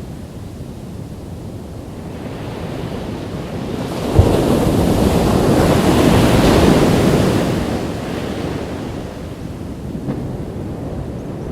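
Ocean waves on a beach: a wave comes in sharply about four seconds in, swells as it washes up and fades away a few seconds later. Wind rumbles on the microphone throughout.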